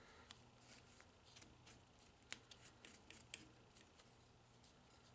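Near silence with faint, scattered clicks and light rustles of small parts being handled, two sharper clicks a little after two seconds and at about three and a third seconds.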